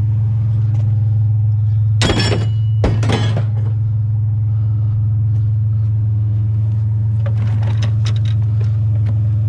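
Truck engine running with a steady low drone, and two short clattering crashes about two and three seconds in.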